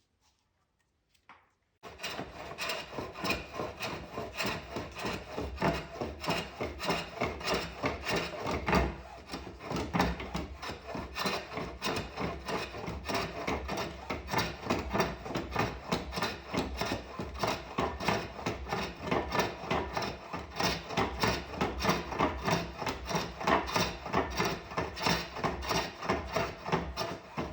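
An edged tool cutting or scraping wood in quick repeated strokes, a couple a second, starting about two seconds in.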